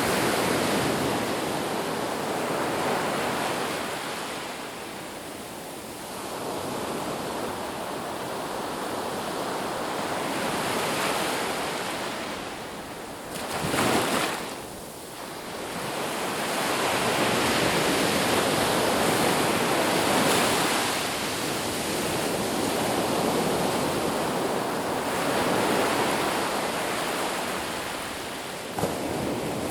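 Ocean surf on a beach: waves breaking and washing up in slow swells that rise and fall every few seconds, with one short, louder crash about halfway through.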